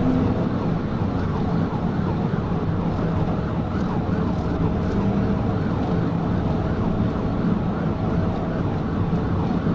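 Police patrol car at high speed in a pursuit, heard from inside the cabin: steady engine and road noise with the emergency siren sounding.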